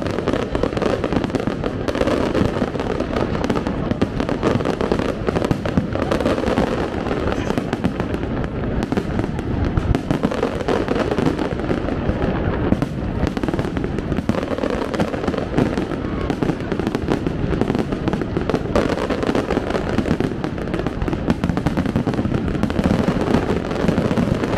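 Fireworks display going off in a continuous dense volley: many shells and ground effects bursting at once, giving overlapping pops and crackling with no pause.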